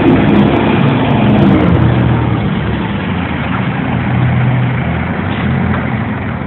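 Fire engine's diesel engine running at low speed, its pitch shifting slightly in the first couple of seconds before settling into a steady idle-like drone.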